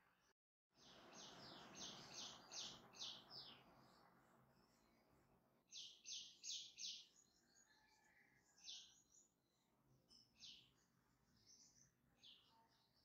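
Small birds chirping in quick series of short high notes: about seven rapid chirps in the first few seconds, four more a little past the middle, then scattered single chirps. A soft noise sits under the first series, and the sound cuts out for a moment just after the start.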